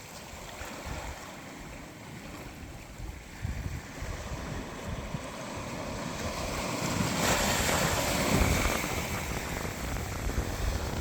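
Atlantic Ocean waves washing in on the shore, a steady rush that swells about seven seconds in as a wave breaks, then eases off.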